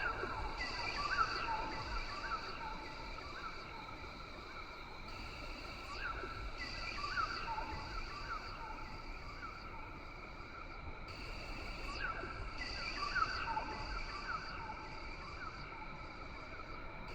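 Rain forest ambience: a steady chorus of animal calls at several high pitches, with a high buzz that switches on and off every few seconds, and short bird chirps scattered throughout.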